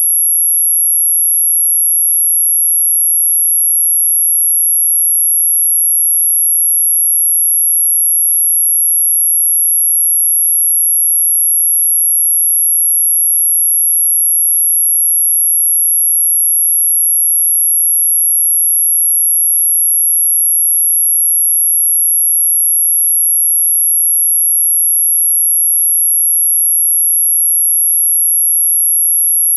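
A single steady, very high-pitched electronic pure tone, held unchanging, played as an anti-mosquito repellent sound.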